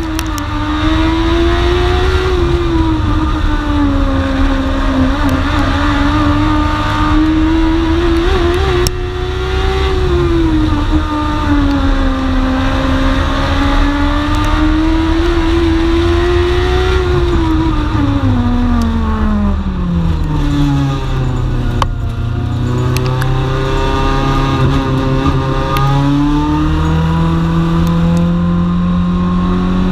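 Onboard sound of a dwarf race car's engine at racing speed, its pitch rising and falling every few seconds as it accelerates and lifts off for the turns. About two-thirds of the way through the note falls to a low, steady drone, then steps up again near the end.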